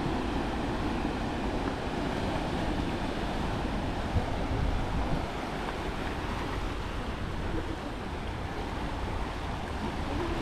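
Ocean surf: a steady rush of waves washing in, with no pauses.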